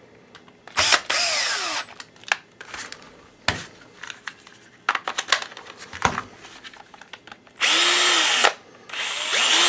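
DeWalt DCD710 cordless drill/driver, fitted with a new replacement motor, test-run in three short trigger pulls: about a second in, again near the end, and once more just after. Each time it spins up and then winds down, with small clicks between the runs. The motor sounds healthy, better than the worn original.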